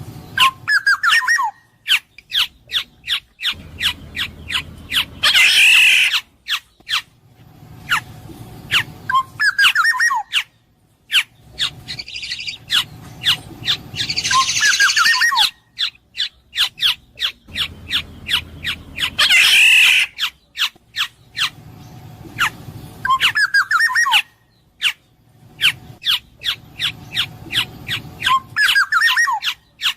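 Black-naped oriole (kepodang emas) calling: short whistled phrases with falling glides alternating with harsh, raspy squawks, among many sharp clicking notes. The same sequence comes round again several times.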